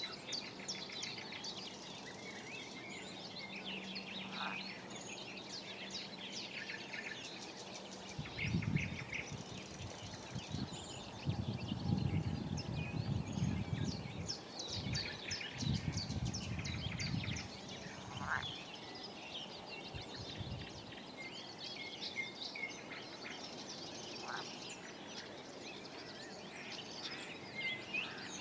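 Early-morning chorus of many birds singing and chirping at once around ponds. A low rumble rises in the middle for about ten seconds and is the loudest sound, and a faint steady hum runs under the first quarter.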